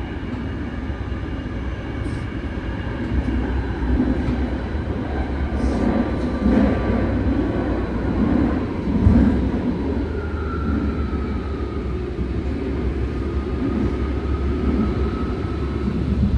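BART train running, heard from inside the car: a steady rumble of wheels on rail, with a faint high steady tone coming in about ten seconds in.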